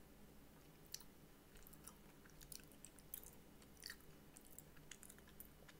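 Faint close-up chewing of a fried apple pie, with scattered small crunchy clicks at irregular intervals, the sharpest about a second in.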